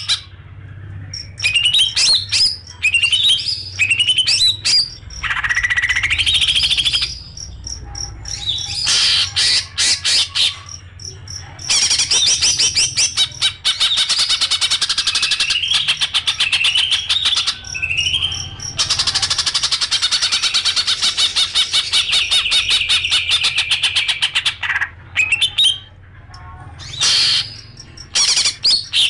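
Songbird singing: fast rattling trills and sharp rising chirps, in bursts lasting from under a second to several seconds with short gaps between them.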